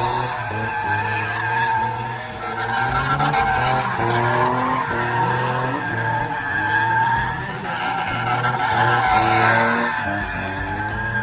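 A car's tyres squeal continuously as it spins them, while its engine revs up again and again in short rising pulls.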